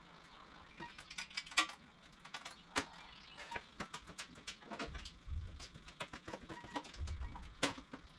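Scattered sharp clicks and taps at an irregular pace, with short low rumbles about five seconds in and again about seven seconds in.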